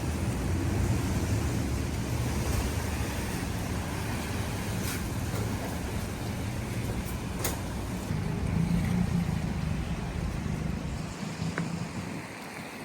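Street traffic: a steady low rumble of passing vehicles, swelling about eight seconds in and easing near the end.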